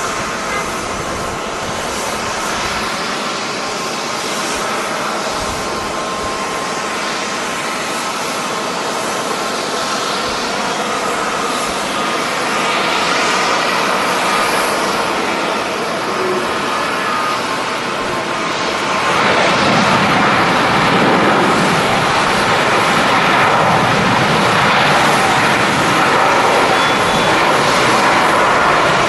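Jet airliner engines running, a steady rushing noise with a faint whine, growing louder about two-thirds of the way through.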